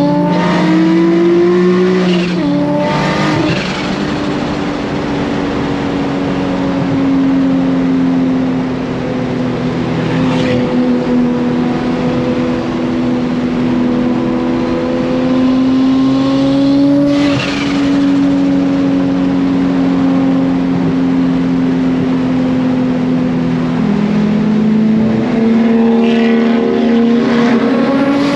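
Nissan Skyline R34 GT-R's big-turbo RB26 straight-six, heard from inside the cabin while cruising. The engine note climbs, drops at a gear change about two seconds in, then holds fairly steady with slow rises and falls. There are short bursts of hiss about three and seventeen seconds in.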